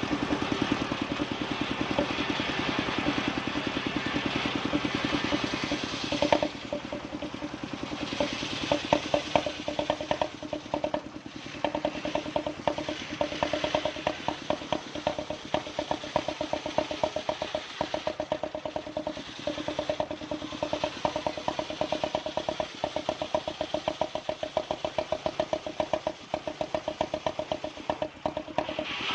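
Sawmill machine's engine running with a steady, rapid pulsing beat. About six seconds in the sound changes and the beat becomes more distinct.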